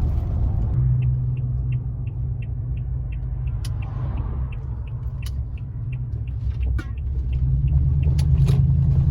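Vehicle running on the road, heard as a steady low engine and road drone, with a light regular ticking at about two to three ticks a second and a short squeak about seven seconds in.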